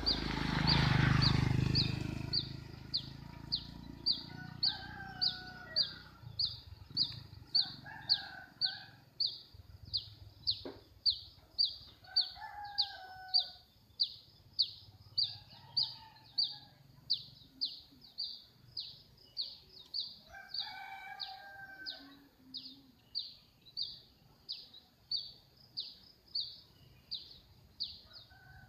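A bird repeats a short, high down-slurred call about twice a second, with a few lower calls from another bird now and then. A brief rush of noise comes in the first couple of seconds.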